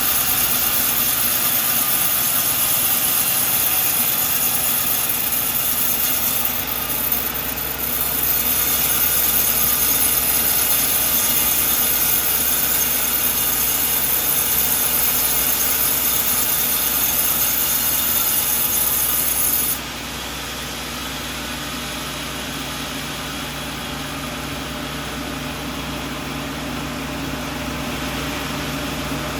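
An engine-driven sawmill running, its blade cutting a coconut log with a steady high-pitched hiss over the engine. A little after halfway the hiss cuts off suddenly and the engine runs on steadily.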